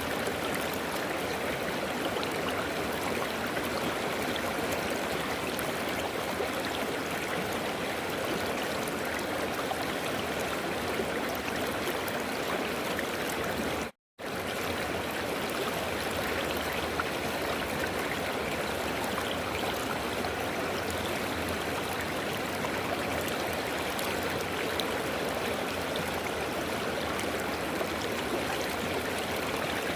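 River water rushing and burbling steadily over rocks. The sound cuts out for an instant about halfway through, then resumes unchanged.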